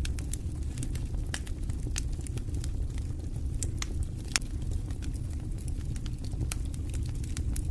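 Wood fire in a fireplace crackling: a steady low rumble of flames under frequent irregular sharp pops and snaps.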